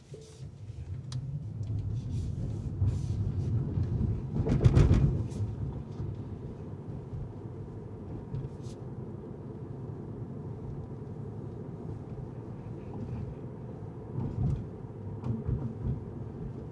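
Car driving on city streets: steady low road and engine rumble with faint clicks, and a louder rushing swell about five seconds in, as of a vehicle passing close by.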